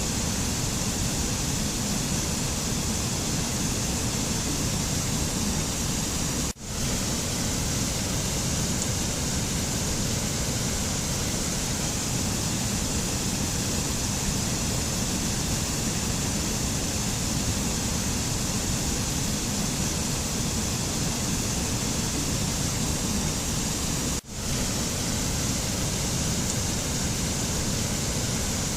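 Steady, even rushing noise of a mountain nature-sounds ambience, with no distinct events. It drops out for an instant twice, about six and a half seconds in and near twenty-four seconds, and swells straight back.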